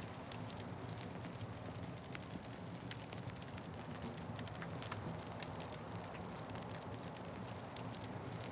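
Wood fire crackling, with frequent small sharp pops over a steady low rumble of the flames.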